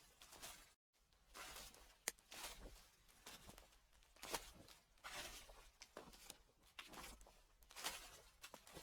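Footsteps crunching through fallen leaves at a slow, even walking pace, about one step a second. There is a brief dropout to silence just before one second in.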